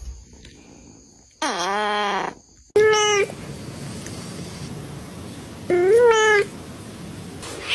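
Domestic cats meowing: three separate meows, the first longer and lower with its pitch dipping and rising again, the second short, the third rising then falling.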